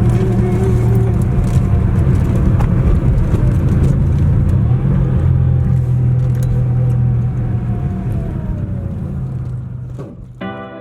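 A 1986 Porsche 911 Carrera's air-cooled flat-six engine running with a steady low rumble as the car drives, fading away near the end as music comes in.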